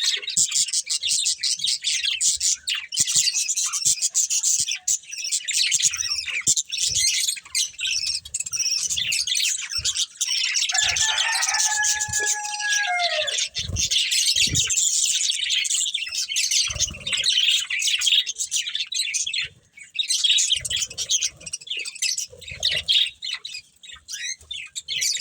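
Budgerigars chirping and chattering without a break in quick, high warbles. About eleven seconds in comes a longer, lower call that falls in pitch at its end, and a few soft thumps follow shortly after.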